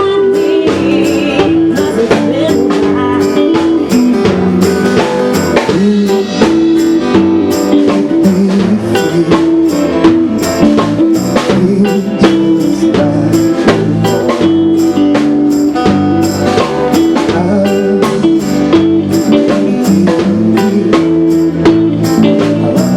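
Loud live band music: a drum kit keeping a steady beat under sustained pitched instruments.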